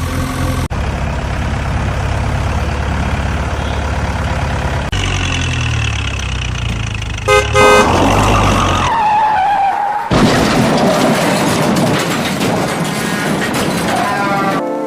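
A vehicle engine running steadily, then a short horn honk about halfway through, followed by loud noisy rushing sound with a wavering tone through the rest.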